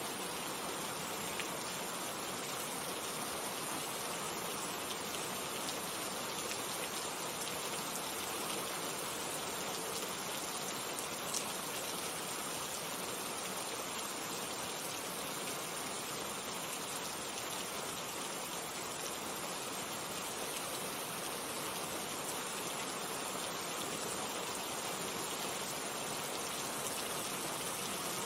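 Steady rainfall, a dense even hiss of falling rain with a few faint single drop ticks standing out.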